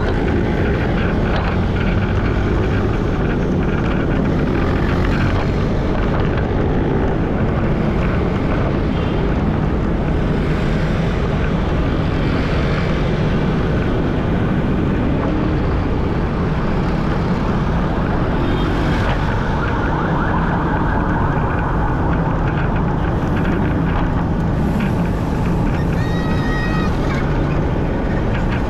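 Wind rushing over an action camera's microphone and street traffic during a bicycle ride, a steady loud rumble. There is a brief high-pitched beeping tone a couple of seconds before the end.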